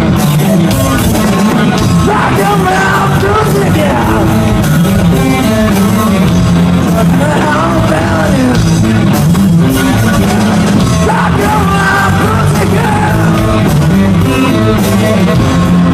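A rock band playing live, loud, with a singer's voice over the band.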